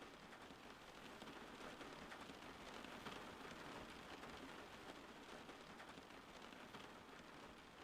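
Steady rain falling, a soft, even hiss flecked with the patter of individual drops, swelling slightly a few seconds in.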